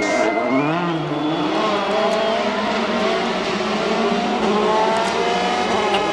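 Hyundai i20 WRC rally car's turbocharged four-cylinder engine at full attack on a stage. The revs dip and jump about as it brakes and downshifts at the start, then climb again and again as it accelerates up through the gears.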